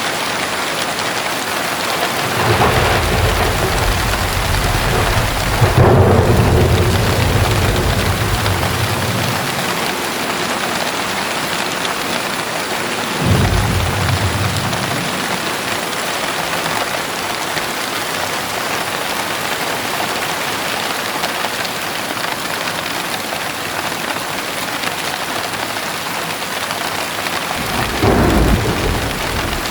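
Steady heavy rain with thunder: a long rolling rumble from about two seconds in, loudest around six seconds, a short clap a little before the middle, and another rumble near the end.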